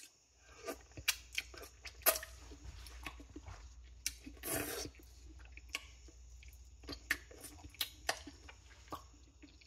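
Close-up chewing and mouth smacking of a person eating spoonfuls of saucy sloppy joe cheesesteak fries, with many short wet clicks, the strongest about two seconds in.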